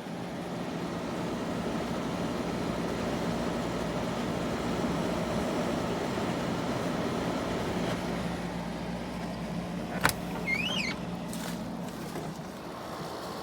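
Frigidaire window air conditioner running with a steady hum and a sloshing, scratchy noise, which the owner thinks could be water or debris inside the unit. A sharp click comes about ten seconds in, followed by a short high chirp and a few fainter clicks.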